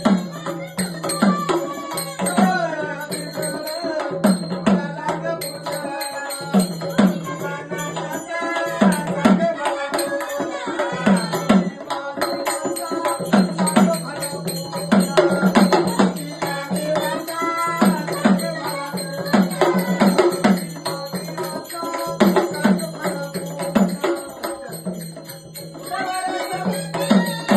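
Marathi devotional folk song in the Gondhal tradition: a melody line, sung or played, over a steady drum beat and rattling percussion.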